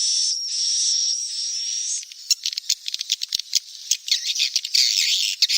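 Swiftlet chick calls: a steady, high hissing buzz for about two seconds, then a rapid chatter of clicks and chirps that grows louder near the end.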